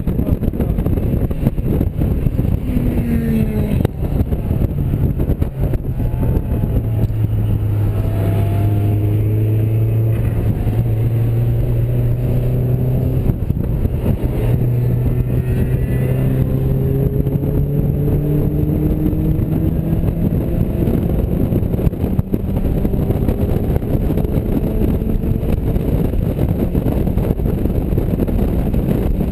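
Mazda MX-5's four-cylinder engine heard from inside the open-top cabin at track speed, under a heavy rush of wind. Its note drops briefly about three seconds in, then holds a long pull with the pitch slowly rising.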